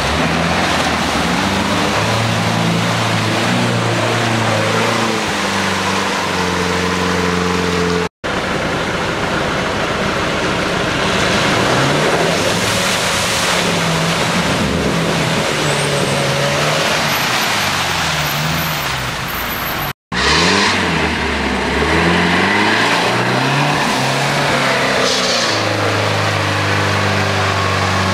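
Off-road 4x4 engines revving hard and repeatedly, pitch rising and falling with each burst of throttle, as a UAZ-469 and another SUV churn through deep mud. The sound comes in three takes, broken by abrupt cuts about 8 and 20 seconds in.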